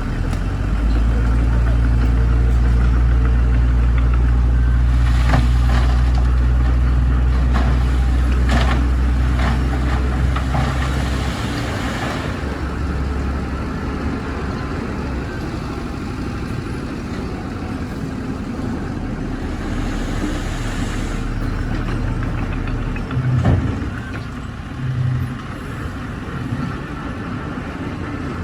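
Heavy diesel construction machinery working: a loud, steady engine drone with sharp metallic clanks for the first ten seconds or so, then a lower, quieter running drone with a couple of thumps near the end.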